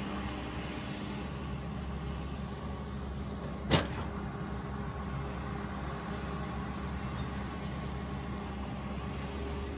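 Engine of a demolition machine running steadily with a low hum, with one sharp knock a little under four seconds in.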